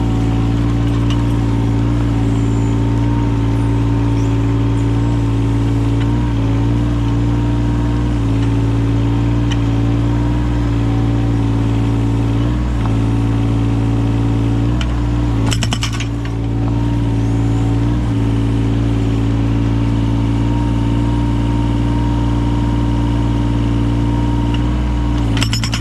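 Yanmar 017 mini excavator's diesel engine running steadily, its note sagging briefly now and then as the hydraulics take load. A short rattle of sharp cracks comes about 15 seconds in and again near the end.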